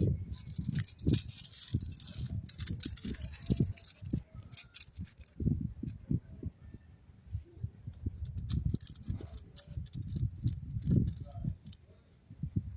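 Toy Boeing 747 airplane being handled: irregular soft knocks and thumps with scattered clicks and light rattles.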